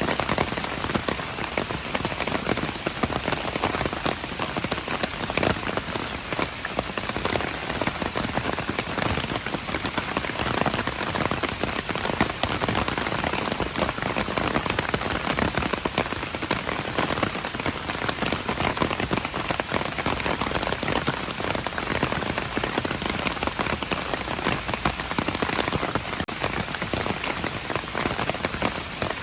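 Steady rain falling and pattering on hard surfaces, a dense even hiss of many drops with no letup.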